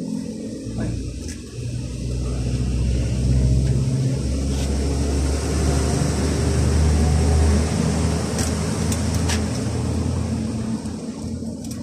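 A motor vehicle's engine running close by, a steady low hum that swells to its loudest around the middle and fades toward the end, with a few light clicks.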